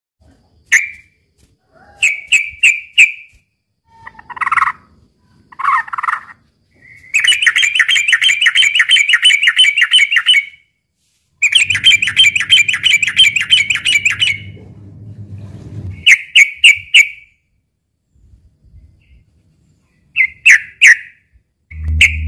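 Sooty-headed bulbul (trucukan) giving its agitated fighting calls: short bursts of three or four quick notes, and two long rapid chattering runs of about three seconds each in the middle. A faint steady low hum sits under the second run.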